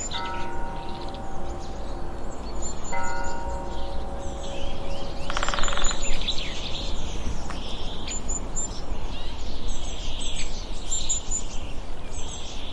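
Birds chirping and calling, many short high chirps and quick sweeps. Two ringing, bell-like tones sound at the start and again about three seconds in, over a steady low background rumble.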